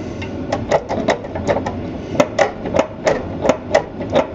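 A hammer striking metal again and again, about three blows a second, each a sharp tap with a short ring.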